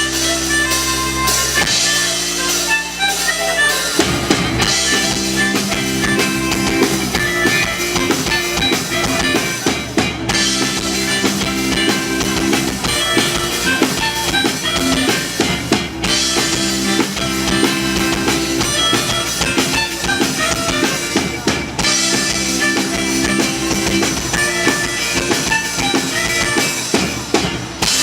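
Live band playing an instrumental passage of the song with a full drum kit: steady kick and rimshot beats under sustained bass and chord notes.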